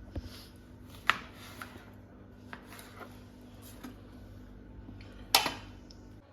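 Dishes being handled: a few sharp clinks and knocks, the loudest about a second in and again near the end, over a low steady hum.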